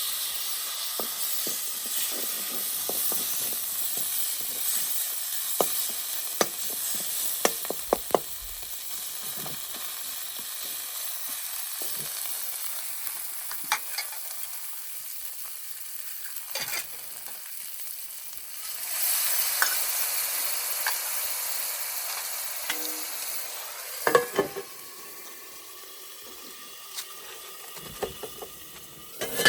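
Food sizzling in a hot pan while it is stirred, with frequent short clinks and scrapes of the utensil against the pan. The sizzle swells about two-thirds of the way through and eases off near the end.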